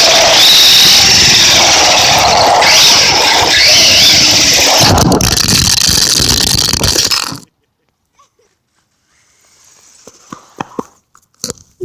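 Radio-controlled car being driven hard: a loud, rough noise of electric motor whine and tyres with wind on the microphone, its pitch rising and falling, cutting off abruptly about seven seconds in. A few faint clicks and knocks follow near the end.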